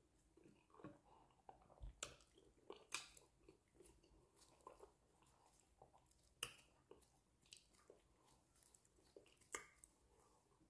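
Quiet close-up chewing of soft fufu and fish: wet mouth clicks and lip smacks, with a few sharper clicks.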